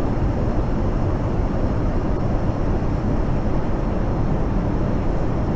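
Steady cabin noise of an Airbus A380 in cruise: an even, unbroken rumble, deepest and strongest in the low end.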